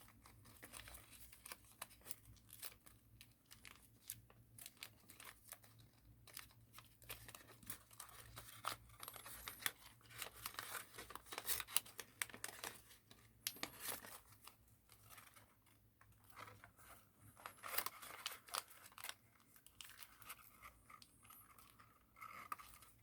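Thin paper crinkling and rustling as it is folded and creased by hand, in many small irregular crackles, busier in the middle of the stretch.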